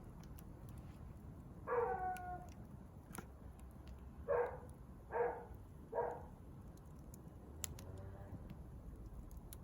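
Animal calls: one longer call, then three short calls about a second apart and a faint last one, over the sharp crackles of a wood fire.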